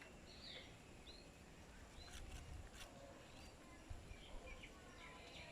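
Faint, scattered chirps and short calls of small birds, with a few sharp clicks about two to three seconds in, over a low background rumble.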